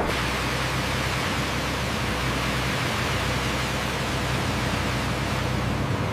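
Steady, even rushing noise with a low hum underneath, starting abruptly.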